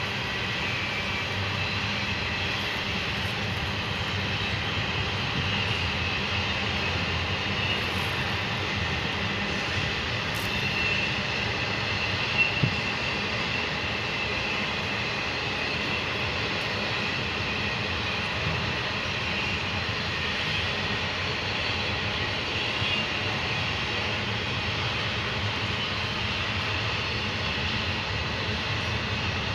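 A train rolling past in a steady, continuous roar of wheels on rail, with two brief louder knocks about twelve seconds in.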